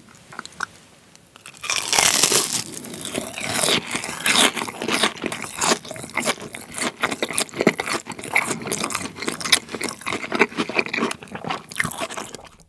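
A bite into a breaded, deep-fried cheese pork cutlet (cheese donkatsu) about two seconds in, loud and crunchy, followed by steady crisp chewing of the fried crust.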